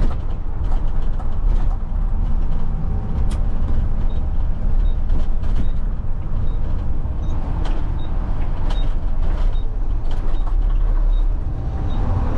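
Front-load garbage truck's diesel engine running with a heavy, steady rumble heard from inside the cab, with frequent short knocks and rattles. A faint high tick repeats through the second half.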